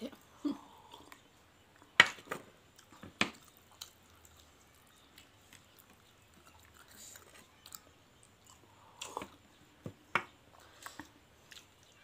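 Close-up chewing and mouth sounds of people eating fried bora fritters by hand, broken by a few sharp clicks and taps, the loudest about two seconds in.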